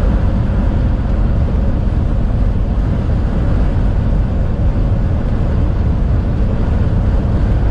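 Strong crosswind blowing against a truck's cab, heard from inside the cabin as a loud, steady low rumble with no break. It is the wind and not the truck's engine.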